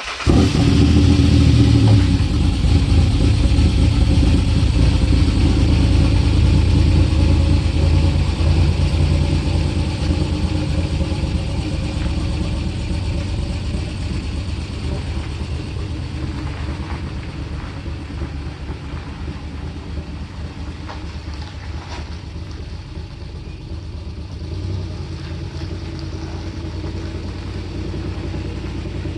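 Ford Explorer engine starting up with a sudden burst, loudest for the first couple of seconds, then running steadily as it settles and slowly gets quieter.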